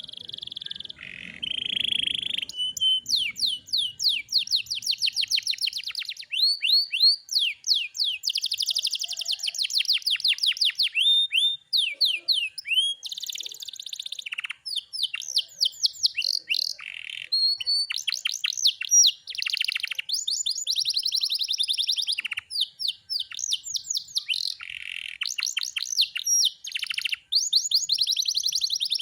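Domestic canary singing a long, nearly continuous song: fast trills and rolls of rapidly repeated high chirps, changing from one phrase to the next with only brief pauses.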